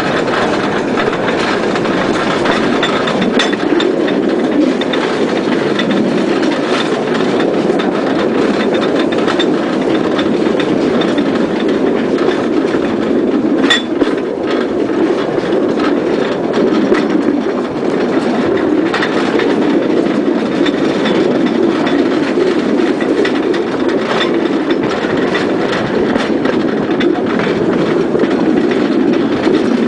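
An 18-inch-gauge train running along the track behind a Greenbat battery-electric locomotive: a steady rumble and clatter of small wheels on the rails, with a sharp click about three seconds in and another near fourteen seconds.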